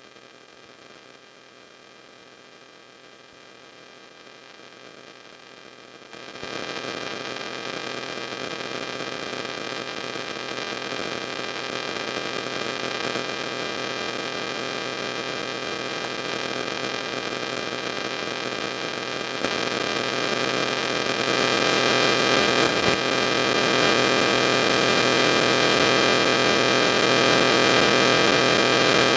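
Steady electrical hum and hiss with many fixed tones, like interference on a sound system. It jumps abruptly louder about six seconds in and steps up again at about twenty seconds.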